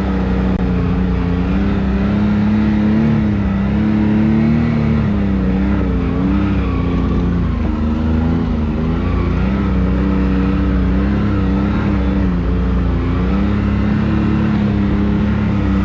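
Can-Am Maverick X3's turbocharged three-cylinder engine running steadily at low, gently varying revs as the side-by-side drives along a trail.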